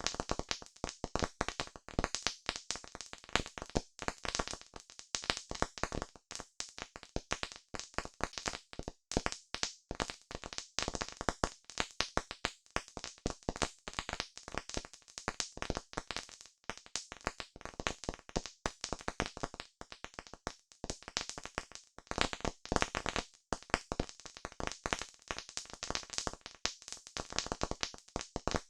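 Campfire crackling: dense, irregular pops and snaps, many each second, with no let-up.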